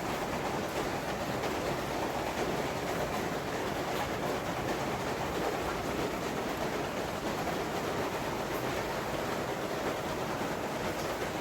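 Steady rushing noise of heavy tropical-storm rain, with faint scattered ticks.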